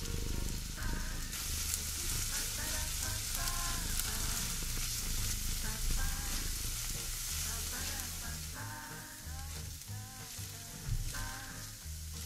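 Food sizzling as it fries in a pan, with a hiss that grows louder about a second in, over background music.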